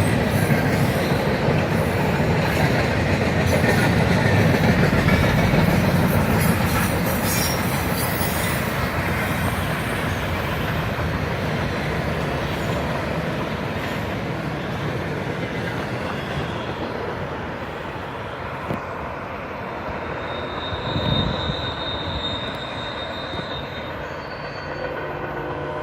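Intermodal freight train cars rolling past on steel wheels, clattering over the rail joints. The sound is loudest early on and slowly fades as the tail of the train goes by. A high wheel squeal comes in about two-thirds of the way through.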